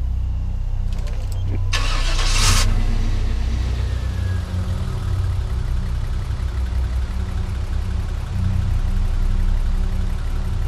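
SUV engine starting: a short loud burst about two seconds in as it catches, then idling steadily.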